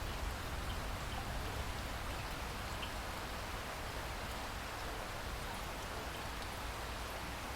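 Steady rain falling in a rainforest, an even hiss of rain with a few individual drops ticking.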